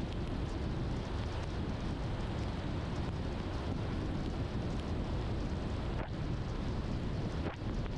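Car driving on a wet road in the rain: a steady low road rumble with tyre and rain hiss.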